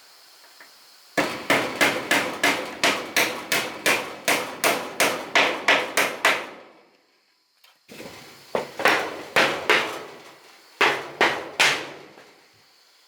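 Hammer blows on wood, struck in quick, even runs of about three a second. A long run of about sixteen blows is followed by a short pause, then two shorter runs.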